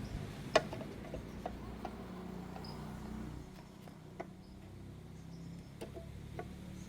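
Scattered sharp clicks and taps of hand tools and small metal parts being handled during work on a motorcycle engine, about seven in all, over a low rumble that drops away about three and a half seconds in.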